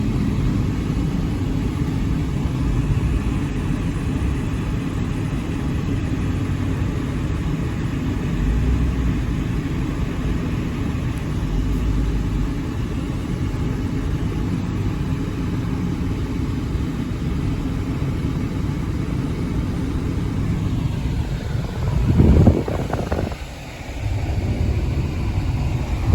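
Helicopter running as it comes in to land: a steady low rumble of rotor and engines, with a brief louder surge near the end.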